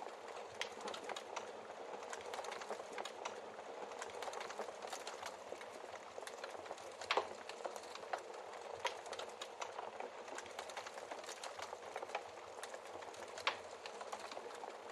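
Wood fire crackling steadily in a fireplace, a dense run of small snaps with a few louder pops from the burning logs, the loudest about halfway through and another near the end.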